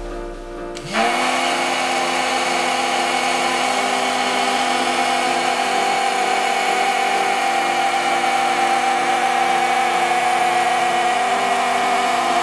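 Small electric motor of a homemade toy helicopter starting up about a second in, quickly rising in pitch, then running steadily with a whine and a whirring rush from the spinning rotor.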